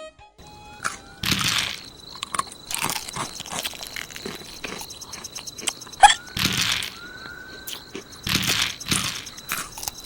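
Repeated crunching, like something being bitten and chewed, in irregular bursts every second or two. Under it run a faint steady high whistle and a few short squeaky chirps.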